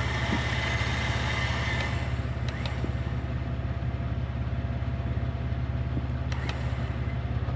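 Vehicle engine idling steadily, with a couple of faint clicks.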